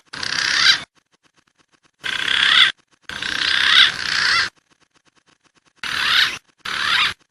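Bird-lure recording of wild pigeon calls: short, high, wavering bursts in pairs, with dead silence between the pairs.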